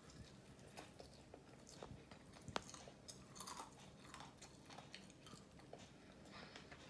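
Quiet, close chewing of crispy fried chicken: soft crunches, bites and wet mouth clicks, with one sharper click about two and a half seconds in.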